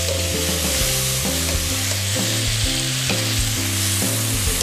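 Pea eggplants (poka) and sliced chilies sizzling steadily in oil in a nonstick wok, with a little water just added, while a wooden spatula stirs and scrapes through them.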